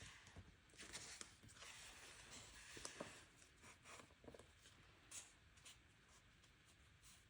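Faint rustling of paper with scattered small clicks from hands working a paper planner with stickers and pens.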